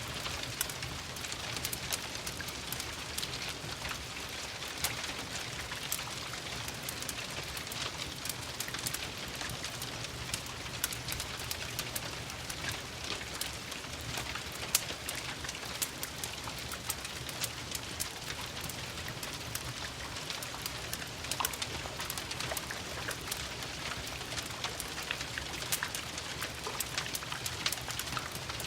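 Steady rain pattering mixed with a crackling fireplace. It is an even hiss with many small sharp pops and ticks scattered through it, over a low steady rumble.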